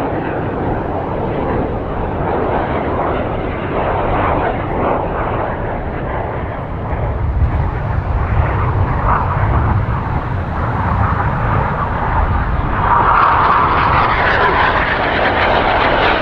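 BAE Hawk jet trainers flying a display pass, a continuous jet roar that swells and fades as the formation passes.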